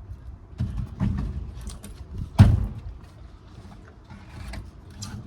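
Irregular knocks, scrapes and creaks of the driftwood stump and its cut roots being handled and shifted, with one loud thump about two and a half seconds in.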